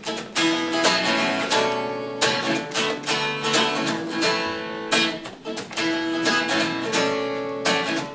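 Acoustic guitar played with a pick, strumming and picking chords in the introduction of a song.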